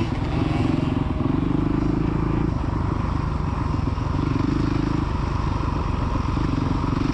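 Small youth dirt bike engine running steadily, its revs rising and easing off three times as the rider opens and closes the throttle.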